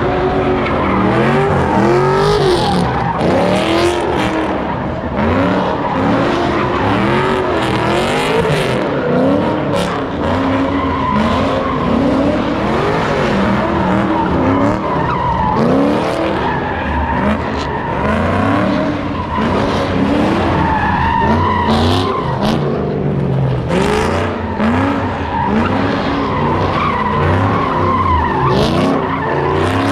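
Car engine revving up and down again and again, about once a second, over a continuous screech of tyres skidding on pavement.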